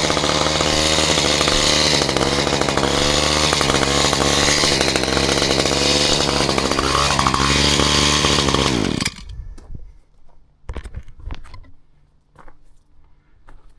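Two-stroke chainsaw engine running steadily. Its pitch dips and climbs again, then it shuts off abruptly about nine seconds in, leaving a few faint knocks and clicks.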